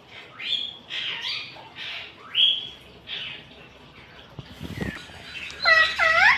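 Pet ring-necked parakeet calling: a run of short chirps in the first few seconds, then two louder, warbling calls that dip and rise in pitch near the end.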